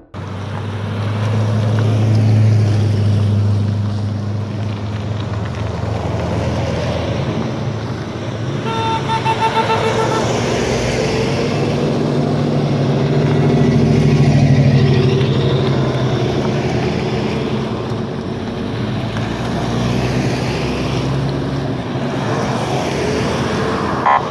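4x4 off-road vehicle engines running, with revs rising and falling, and a car horn sounding briefly about nine seconds in.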